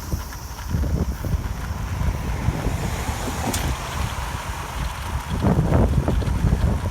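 Strong typhoon wind buffeting the microphone in uneven gusts, mostly a deep rumble, louder about five seconds in.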